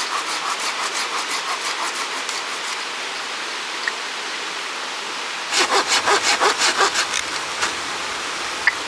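Hand saw cutting wood in quick back-and-forth strokes, about five a second for the first few seconds, then a louder run of strokes in the second half after a pause.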